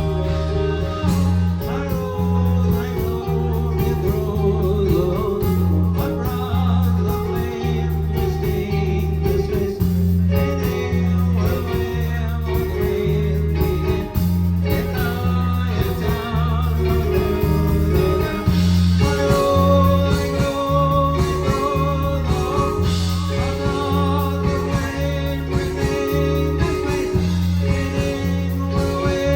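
Live band playing a song: a rhythmic bass line of held low notes under guitar and a singing voice.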